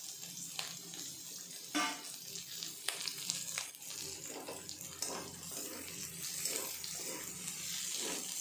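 Chopped vegetables sizzling in hot oil in an aluminium kadai, with a steady hiss and scattered clicks. In the second half a metal spatula scrapes and stirs them around the pan.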